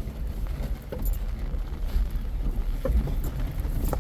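Four-wheel-drive vehicle crawling over a rough trail, heard from inside the cab: a steady low rumble with scattered knocks and rattles, about one a second.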